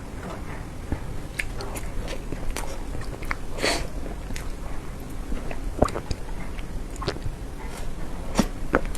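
Close-up eating sounds of soft cream cake being bitten and chewed: scattered short mouth clicks and smacks, with one longer noisy sound about three and a half seconds in.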